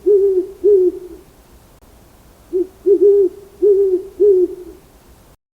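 Owl hooting in low, even-pitched hoots: two at the start, then a phrase of five starting about two and a half seconds in, three quick ones followed by two longer ones. The recording cuts off suddenly near the end.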